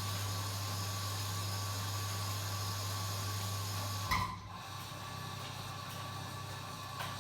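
Washing machine running with a steady low hum; about four seconds in a click sounds, the hum cuts off and the machine goes on more quietly with a rougher low rumble, with another small click near the end.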